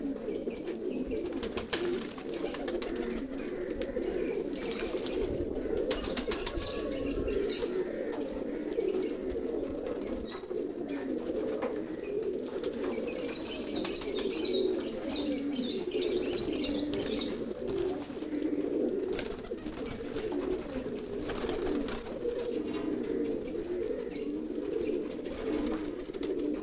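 Many pigeons cooing at once in a continuous, overlapping chorus, with scattered sharp clicks and wing flutters.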